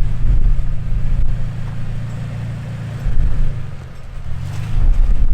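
Off-road vehicle engine running with a low, uneven rumble. The revs ease off in the middle and pick up again near the end.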